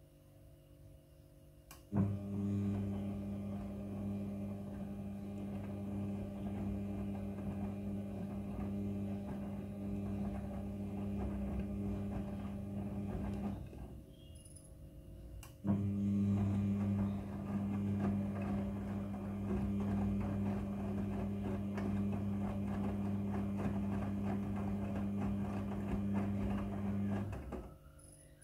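Midea front-loading washing machine running in two stretches of about eleven seconds each with a short pause between: a steady motor hum with a rustling, churning noise over it, the on-pause-on pattern of the drum tumbling the wash.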